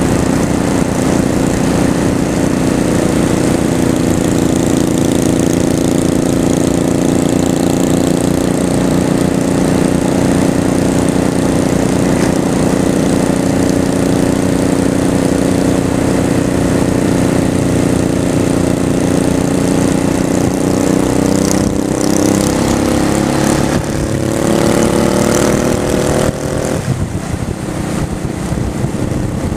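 Honda Shadow V-twin motorcycle engine running at a steady cruising pitch under way, with wind rush. Late on, the engine pitch climbs as the bike accelerates, then drops suddenly at an upshift.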